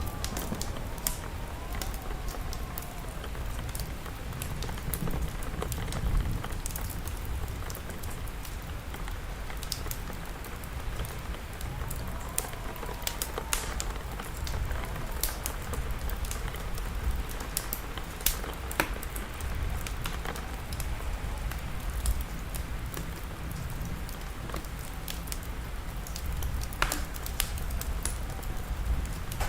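Wood fire crackling with scattered sharp pops, over steady rain and a continuous low rumble.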